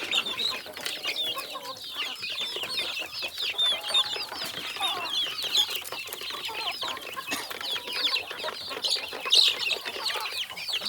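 Flock of Dominant CZ hybrid chickens peeping and clucking, many short high calls overlapping continuously.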